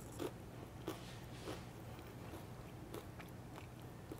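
A person chewing a bite of crunchy Wasa light rye cracker topped with a soft cheese spread: faint, irregular crunches, about two a second.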